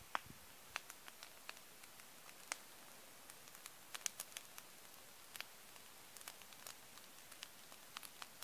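Wood bonfire crackling faintly: irregular small pops and snaps over a soft hiss, with a few sharper pops.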